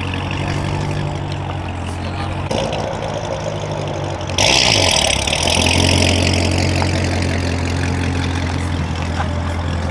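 Car engine idling close by, a steady low drone. About four and a half seconds in, a sudden loud hiss joins it and slowly fades.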